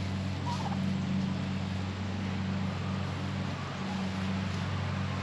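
A motor running steadily with a low, even hum, under a faint hiss.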